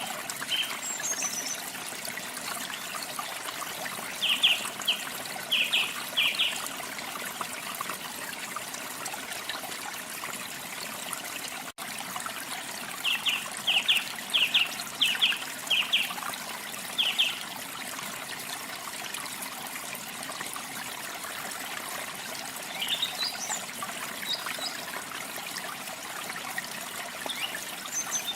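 Steady running water, like a small waterfall or stream, under a bird's calls. Twice the bird gives a run of several short, high repeated notes, and a few higher chirps come near the start and toward the end.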